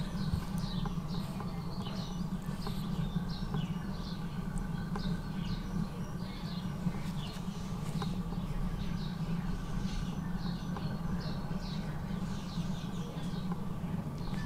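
Small birds chirping, short high chirps repeating several times a second, over a steady low hum.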